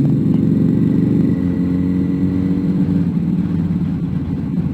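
Motorcycle engine running steadily while riding along the road, its note shifting slightly about a second and a half in.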